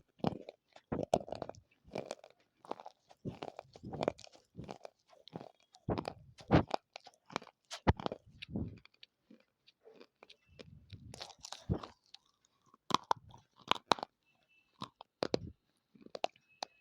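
Dry clay (mitti) being bitten and chewed close to the microphone: irregular crisp crunches, several a second at first, fewer and more spaced after about ten seconds.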